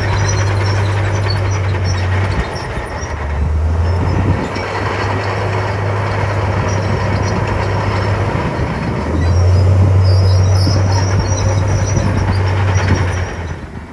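Heavy diesel engine of earthmoving machinery running under load with a steady low drone, getting louder about nine seconds in and falling away near the end.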